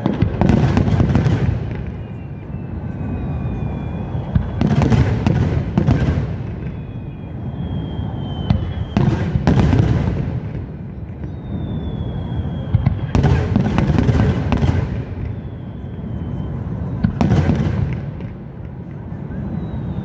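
Fireworks display: aerial shells bursting in volleys about every four seconds, each volley a quick string of bangs. A low rumble and echo carry on between the volleys.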